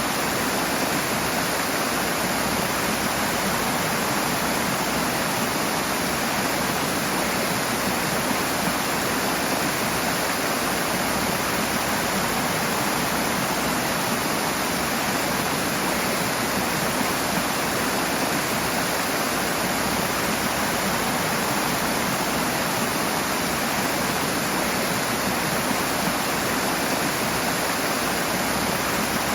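Rushing water: a steady, unbroken roar of fast-flowing water, like a waterfall or torrent.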